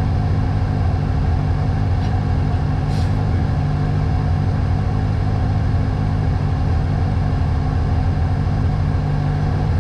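VAZ 2105 (Lada) rally car's four-cylinder engine running steadily at a constant speed while the car waits at the stage start line.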